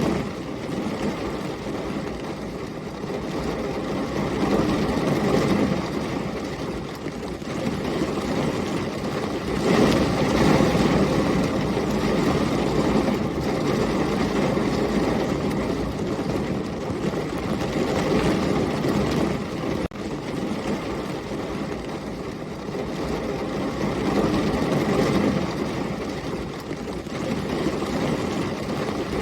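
Heavy rain with storm wind: a dense, steady rush with a deep rumble underneath, swelling and easing in gusts every few seconds, loudest about ten seconds in.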